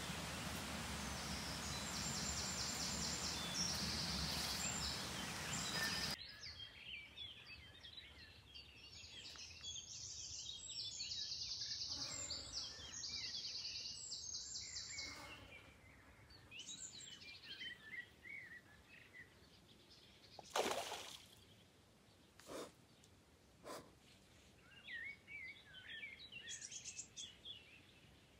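Songbirds chirping and trilling in woodland, over a steady rushing noise that cuts off abruptly about six seconds in. A few sharp knocks come near the middle.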